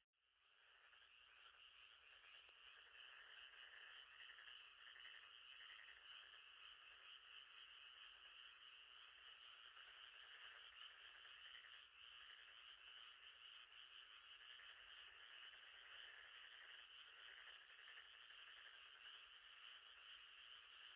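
Faint, steady night chorus of calling frogs, a dense trilling that goes on without a break. It drops out at the very start and fades back in over about a second.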